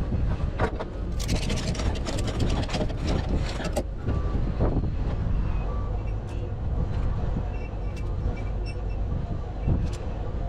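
Steady low rumble of a running vehicle engine, with a rapid run of sharp clicks from about a second in that lasts a couple of seconds, and a few single clicks later.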